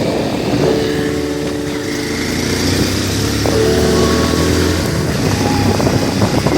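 Motorcycle engine running steadily, its pitch changing in steps a couple of times.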